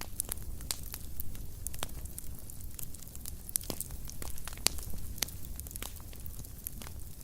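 Wood fire crackling in a fireplace: irregular sharp pops and snaps, one louder pop a little after the middle, over a low steady rumble of the flames.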